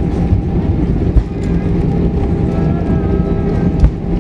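Airbus A319 cabin noise: a steady low rumble with a faint engine hum, and two short thumps, about a second in and near the end.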